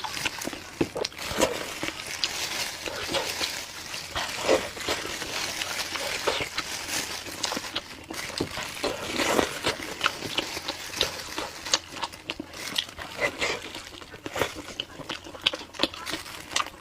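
Close-miked eating sounds: a person chewing braised meat with irregular wet smacks and clicks of the mouth.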